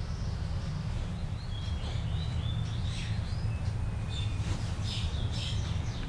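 Birds chirping in short, scattered calls over a steady low rumble of background noise.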